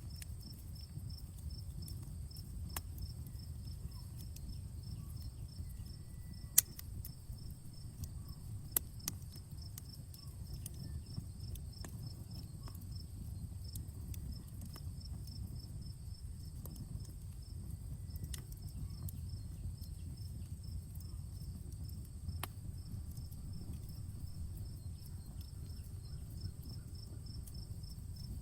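Outdoor wood campfire crackling, with scattered sharp pops, the loudest about six and a half seconds in and two more near nine seconds. Crickets chirp steadily behind it in an even, fast pulse.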